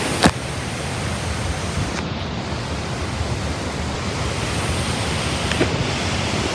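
Strong thunderstorm wind blowing steadily, a continuous rush of air over the microphone, with one sharp click just after the start.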